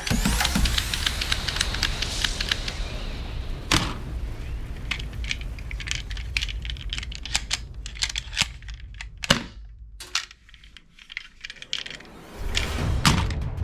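Toy guns making a run of sharp clicks and a few louder cracks, over faint background music. The music drops away about ten seconds in and comes back near the end.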